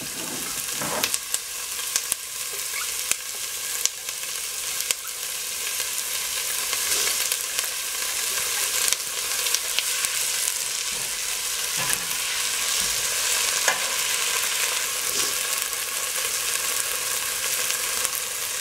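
Diced onions and tomatoes sizzling in hot coconut oil in a stainless steel pot, with a steady hiss. A silicone spoon stirring them scrapes and taps against the pot now and then.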